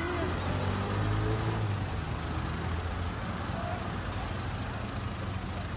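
Vehicle engine idling: a steady low hum under an even haze of street noise.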